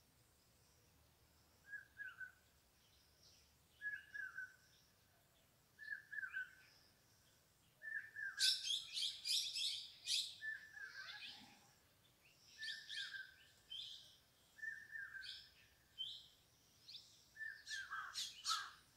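Small birds chirping: a short call repeated about every two seconds, joined from about eight seconds in by bursts of quicker, higher chirps, loudest just after they start and again near the end.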